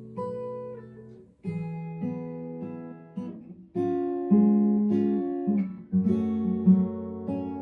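Acoustic guitar played slowly, a run of plucked notes and chords, each ringing out and dying away before the next.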